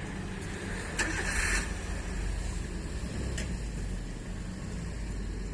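Truck engine running steadily at idle, with a sharp click and a short hiss about a second in and another click a little past the middle.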